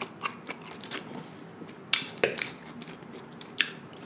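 Close-miked chewing and biting of food: wet mouth noises broken by several short sharp clicks, the loudest about two seconds in.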